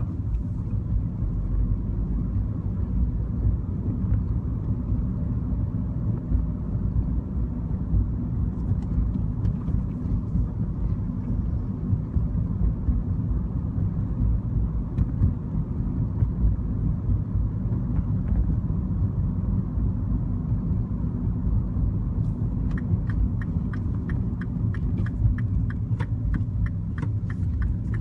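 Mini Cooper driving along with a steady low engine and road rumble. About five seconds before the end, a quick regular ticking starts, about three ticks a second.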